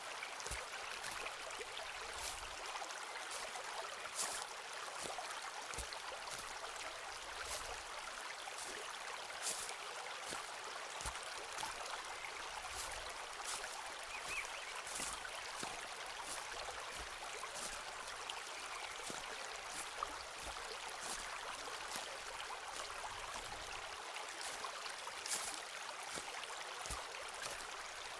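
Forest ambience: a steady rushing hiss with scattered light ticks and crackles and an occasional soft low thump.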